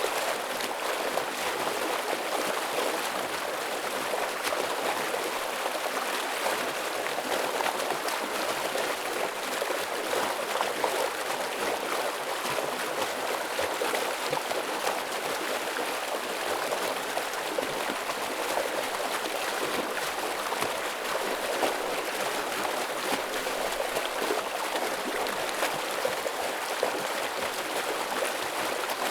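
Forest stream running over rocks: a steady rush of flowing water with splashing and gurgling, even throughout.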